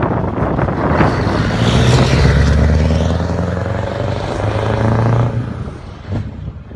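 Scania 164L's 16-litre V8 diesel running on an open, unsilenced exhaust pipe, driving past under power with a deep, steady engine note. The sound fades quickly about five and a half seconds in as the truck moves away.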